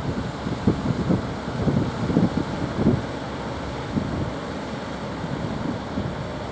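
Strong wind buffeting the microphone in irregular low gusts over a steady rushing hiss, easing a little about halfway through.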